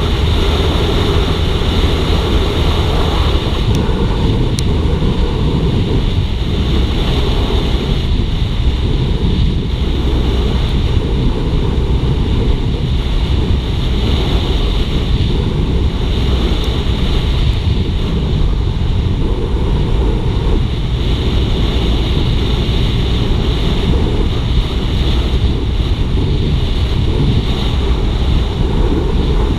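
Steady wind rushing over the microphone while riding a Suzuki GSX-R150 motorcycle, with the bike's engine running under the wind noise.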